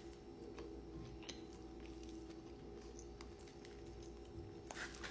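Faint chewing and mouth sounds of someone eating pizza, with a few soft clicks over a steady low hum.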